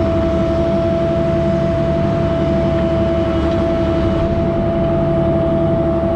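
An engine running at a steady speed: a low rumble with a steady whine over it.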